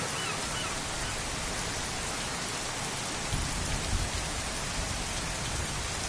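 Heavy rain falling steadily on a flooded street, a constant hiss of drops on standing water. A brief low rumble comes about three to four seconds in.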